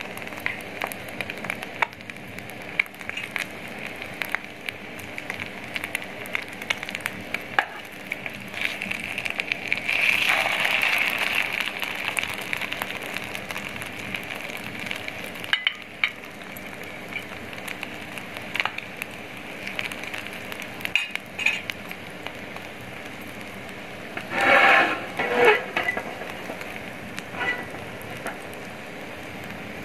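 Shami kababs frying on high heat in melted beef fat, a steady sizzle dotted with small crackling pops. It swells louder about a third of the way in, and a brief louder sound comes near the end.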